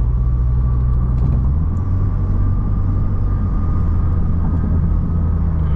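2016 Lexus IS200t's 2.0-litre turbo four-cylinder with an axle-back muffler-delete exhaust, running steadily under way with a low drone that shifts pitch about one and a half seconds in, and a faint steady high whine above it.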